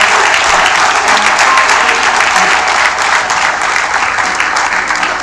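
Audience applauding and cheering steadily for the top-ranked student just announced.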